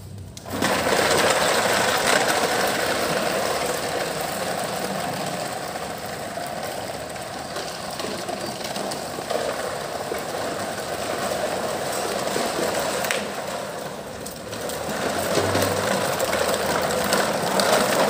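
Toy truck being run, a steady rattling whirr that starts about half a second in and carries on without a break, dipping a little around the middle.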